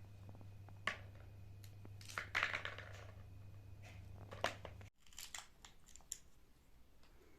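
Crinkling and rustling of handled material with a few sharp clicks, over a steady low hum that stops abruptly about five seconds in.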